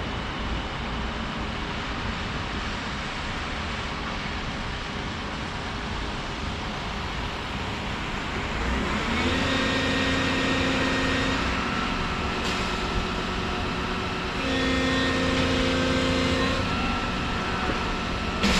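Volvo 235EL excavator running steadily. Twice, for about two seconds each, a whine rises and then holds a steady pitch while the machine gets louder, as the hydraulics come under load.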